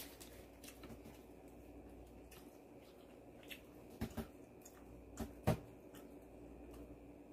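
Bites and chewing of a crisp piece of fried guobaorou (Chinese sweet-and-sour pork): a few short crunches in the second half, the last the loudest, over a low steady room hum.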